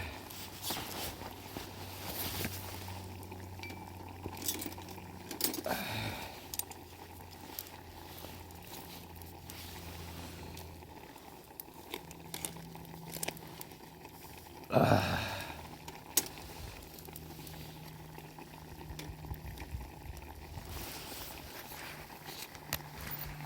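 A pot of soup simmering over a campfire, with scattered light clinks and knocks. One louder short sound about fifteen seconds in, falling in pitch.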